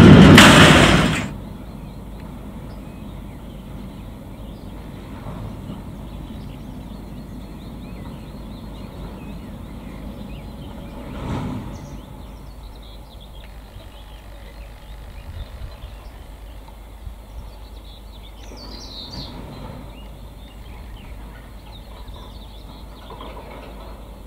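A narrow-gauge peat railway train running loudly on the track for about the first second, cut off abruptly. Then quieter open-air ambience with a faint low rumble and birds chirping, a brief low swell about eleven seconds in, and a short gliding bird call near the two-thirds mark.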